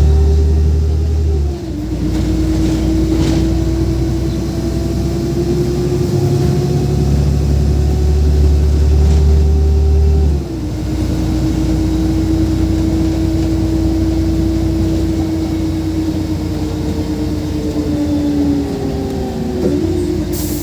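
LiAZ 5292.67 city bus under way on its compressed-natural-gas engine, heard on board: a steady low rumble with a whine that climbs slowly as the bus gathers speed and drops in pitch at two gear changes, about a second and a half in and about ten seconds in. Near the end the whine falls away as the bus slows.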